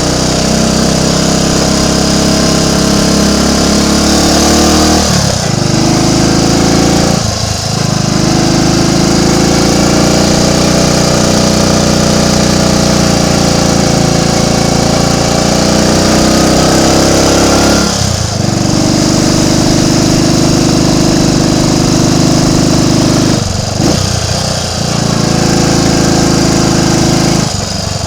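Triumph Tiger Cub's single-cylinder four-stroke engine running under way on the road. The engine note slowly rises and falls, and it breaks off briefly several times.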